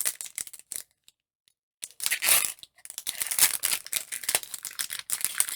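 Crinkling and tearing of a foil Pokémon booster pack wrapper, with cards being handled, in irregular crackly bursts. The sound drops out for about a second near the start.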